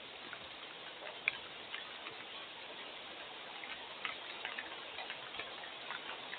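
Rain falling with a steady hiss, and individual drops ticking irregularly on a hard surface.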